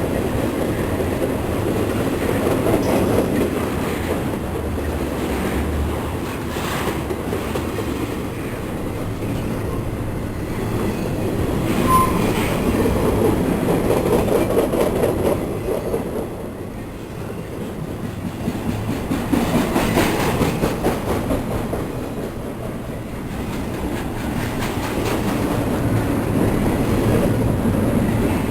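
Cars of an intermodal freight train rolling past, a steady clatter of wheels over the rail joints that swells and eases as the cars go by.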